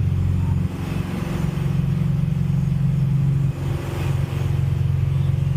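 Cessna 172RG's four-cylinder Lycoming engine running at full takeoff power, a steady drone as the airplane rotates and lifts off.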